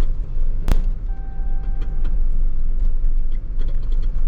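Tow truck's engine running with a heavy, steady low rumble. A sharp click comes about a second in, followed by a steady electronic beep lasting about a second.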